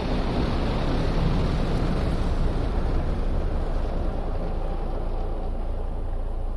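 Automatic car wash machinery heard from inside the car: a steady, dense noise of spraying water and moving machinery, easing off a little about four seconds in.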